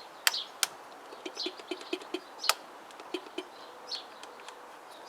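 Small birds chirping with short repeated calls, with a few sharp clicks, two near the start and one about halfway through; the engine stays silent and does not crank.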